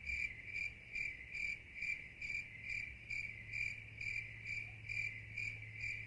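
Cricket chirping in a steady, even rhythm of a little over two chirps a second over a low hum. It starts and stops abruptly like an added cricket sound effect marking the quiet of the carriage.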